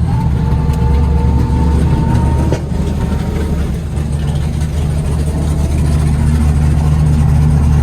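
Pro Formula Drift Corvette's engine running at a steady, low drone.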